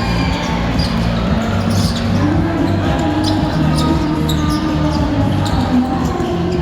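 A basketball bouncing on the court, with sharp strikes coming every so often over a steady background of crowd voices.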